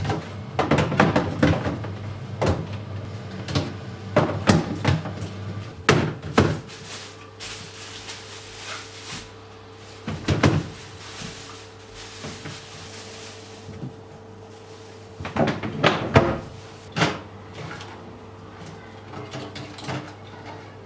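Household items being handled during fridge cleaning: a series of sharp knocks and clatters, as of doors, drawers, shelves and containers being opened, closed and set down. There are two short stretches of soft hiss in the middle, and a faint steady hum underneath.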